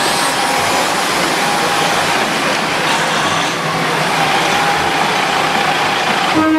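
Maeklong Railway diesel train moving off from the station, its engine running and wheels rolling in a steady, loud rumble. Near the end its horn begins to sound.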